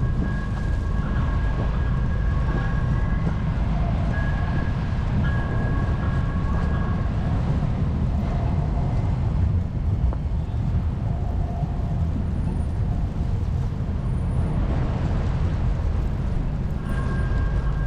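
Downtown street ambience: a steady low rumble of traffic, joined by a pair of steady hum-like tones for the first several seconds and again near the end.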